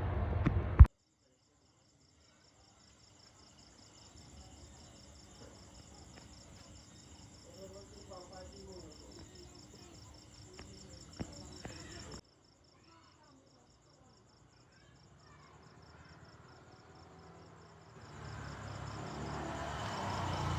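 Crickets trilling: a steady, fast high-pitched pulsing, over a faint low background hum. A loud rumbling noise stops abruptly about a second in, and a louder rumbling noise builds up near the end.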